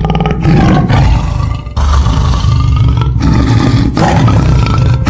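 Tiger roaring in three long, loud bouts with short breaks between them.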